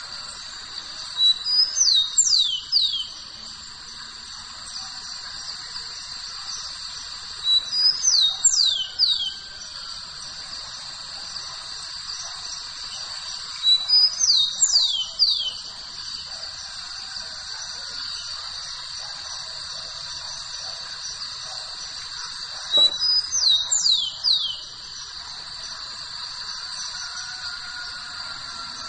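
A songbird singing a short phrase of a few quick, high, downward-sweeping whistles, opened by one or two brief notes, repeated four times about every six seconds. A steady high-pitched hiss runs underneath.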